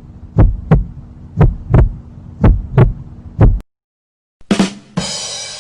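Heartbeat sound effect: paired low thumps in a lub-dub rhythm, about one pair a second, stopping about three and a half seconds in. Near the end a different effect starts, a sharp hit followed by a steady hiss.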